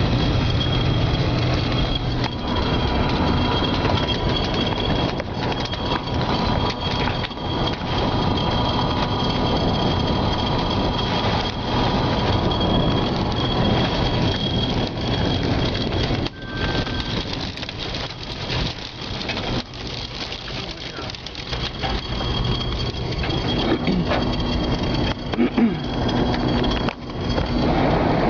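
Strong tornado wind rushing over the microphone: a loud, steady, noisy rush with gusts, easing somewhat for several seconds past the middle.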